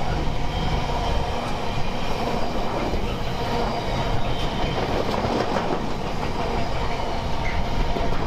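Container freight train running past, its loaded flat wagons making a steady rolling noise of wheels on rail.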